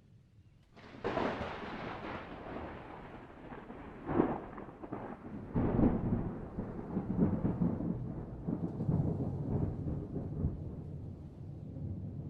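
Thunder: a sudden crack about a second in, followed by crackling peals a few seconds later and a long rolling rumble.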